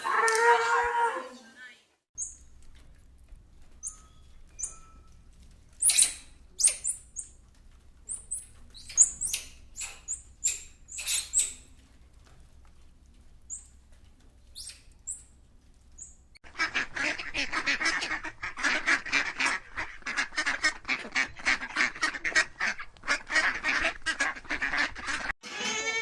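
Domestic waterfowl calling. Scattered short, sharp calls come first; then, from a bit past the middle, a whole flock calls at once in a dense run of rapid, overlapping calls. The end of a cow's moo fades out at the start.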